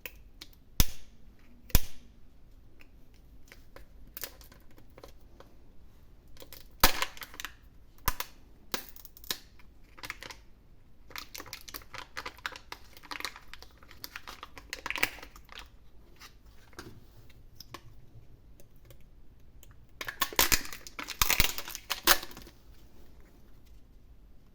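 Close-miked hand handling of a chocolate surprise egg and its packaging. Sharp plastic clicks and snaps come at intervals, with spells of crinkling in the middle and again near the end.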